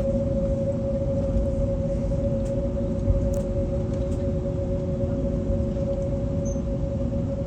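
Airbus A321neo cabin noise: its CFM LEAP-1A engines run steadily, with a strong steady hum over a low rumble.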